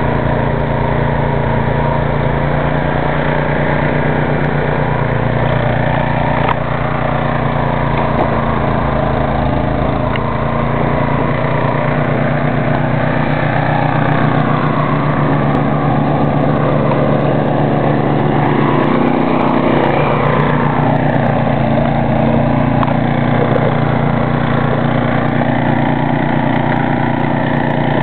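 Ariens snow thrower's small gas engine running steadily while clearing snow, loud and continuous with a slight change in tone about two-thirds of the way through.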